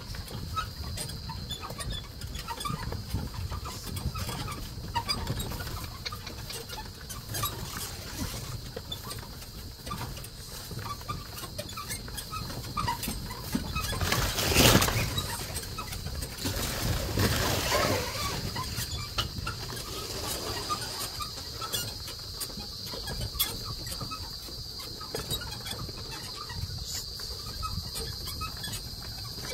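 Carabao-drawn cart moving along a rough track: many small irregular knocks and rattles over a low rumble, with a steady high-pitched drone throughout and a louder rushing swell about halfway through.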